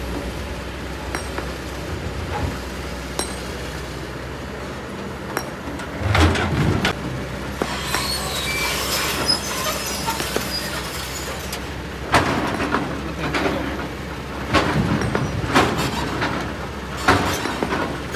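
Kobelco SK200 hydraulic excavator's diesel engine running steadily while its bucket works rock and sand. Stones scrape and clatter loudly several times, about six seconds in and then repeatedly from about twelve seconds on.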